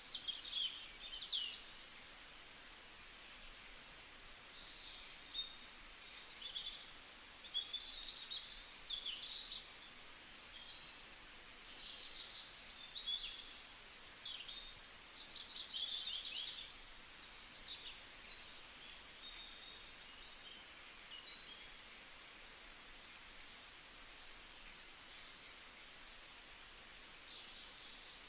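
Small birds chirping, with many short high calls and quick trills following one another.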